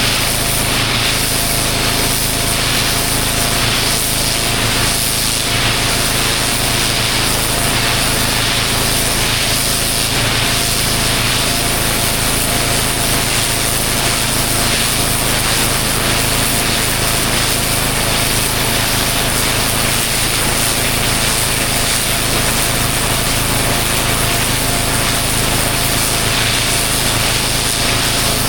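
Pressure washer running steadily, its engine drone under the loud hiss of the water jet blasting dirt and moss off block paving.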